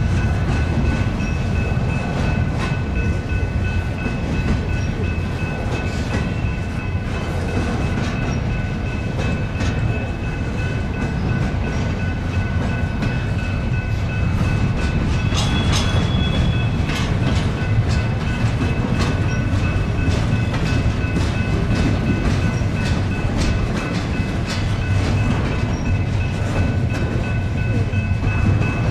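Norfolk Southern intermodal freight cars rolling past: a steady rumble of steel wheels on rail with clicking over the rail joints. A thin, steady high whine runs under it, and a short sharper squeal comes about halfway through.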